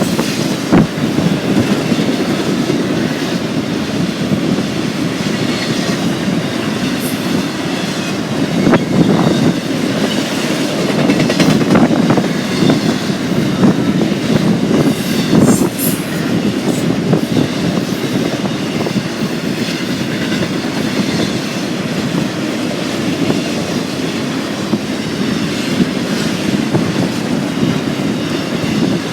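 Freight train cars rolling steadily past, their steel wheels clacking over rail joints.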